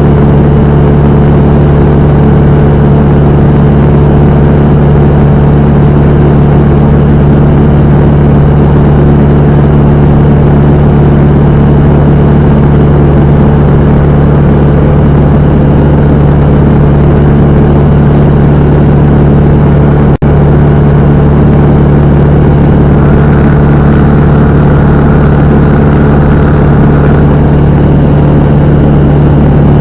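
The Cessna 172M's four-cylinder Lycoming O-320 engine and propeller run loud and steady at an unchanging speed, with a brief cut in the sound about two-thirds of the way through.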